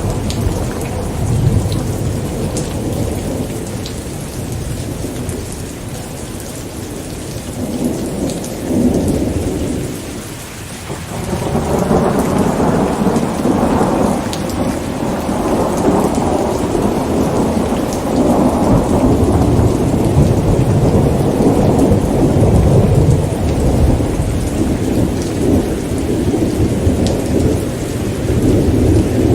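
Thunderstorm: steady rain with long rolling thunder rumbling underneath. The rumble eases off about a third of the way in, then builds again and stays loud for the rest.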